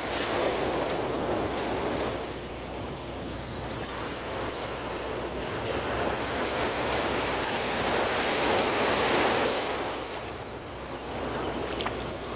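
Rushing of surf on the shore mixed with wind, swelling louder about half a second in and again around eight to nine seconds in, and easing between.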